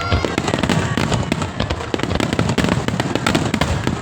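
Aerial fireworks bursting in a rapid, dense barrage: many sharp bangs and crackles a second, without a pause.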